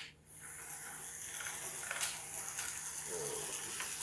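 Toy electric trains running on their track: a steady high whir with a few faint clicks from the wheels on the rails.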